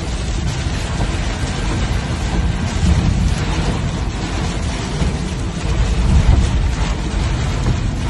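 Flash-flood torrent rushing steadily, with a heavy low rumble that swells and fades.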